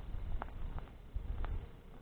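Bonfire of burning branches crackling, with a few sharp pops over a low rumble.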